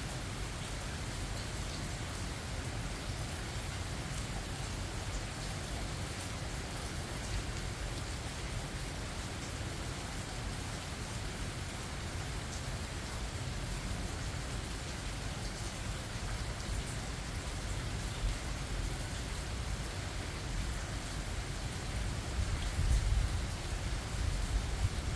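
Steady rain falling in a forest, an even hiss of drops landing on surfaces. A low rumble swells up beneath it near the end.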